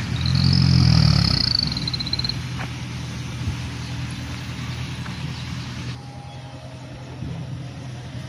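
Mitsubishi Canter dump truck's diesel engine running, swelling louder for about the first second and a half. A thin high squeal rises and falls over the first two seconds.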